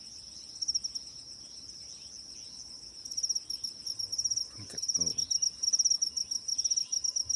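Night insects trilling in a steady high chirring. About three seconds in, the trill grows louder and breaks into quick, regular pulses.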